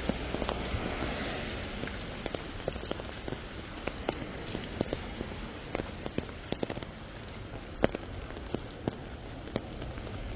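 Steady rainfall hissing, with irregular sharp taps of larger drops hitting an umbrella canopy, a few each second, one louder tap near the end.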